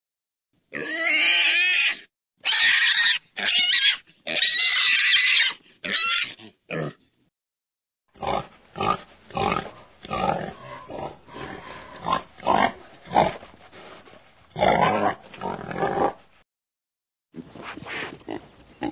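Pig squealing in about six loud, high-pitched calls, then grunting in a run of short grunts, about two a second.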